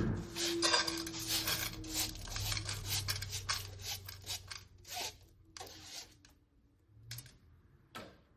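Kitchen clatter: a quick run of clicks and scrapes from utensils and dishes being handled, thinning out about six seconds in, with a couple of lone clicks near the end.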